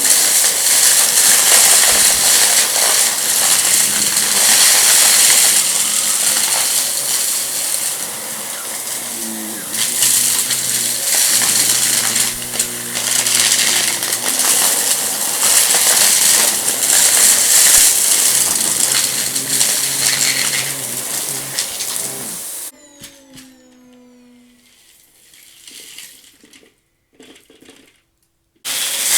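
Vacuum cleaner running over a rug and sucking up crunchy debris, which rattles and crackles as it is pulled through. About 23 seconds in it is switched off and the motor winds down, falling in pitch. It starts again just before the end.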